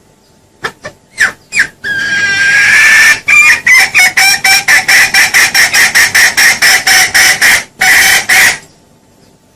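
Junglefowl calling, as a lure call. It gives a few short clucks, then a long note, then a fast, even run of clucks at about four to five a second, ending on a longer note near the end.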